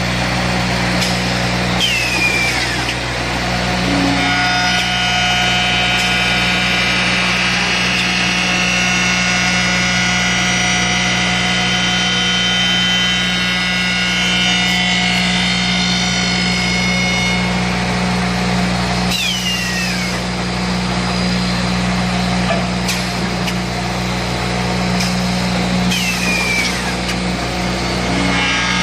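Broom-handle threading machine running with a steady motor hum while it cuts a wooden handle. A harder, higher cutting tone comes in for a stretch in the middle, and there are three short falling whines.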